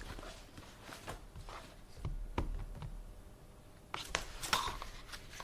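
Office desk handling sounds: scattered light clicks and knocks over a low steady hum, with a rustle of paper being handled about four seconds in.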